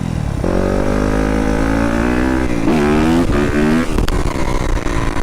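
Yamaha dirt bike engine running while riding. It holds a steady note, revs up about two and a half seconds in, and drops off near four seconds with a sharp click before running steadily again.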